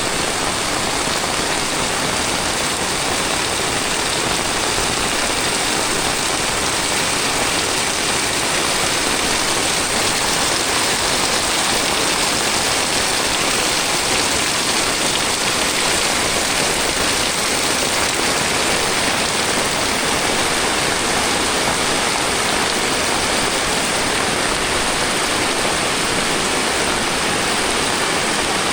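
Heavy tropical rain falling in a steady, dense downpour.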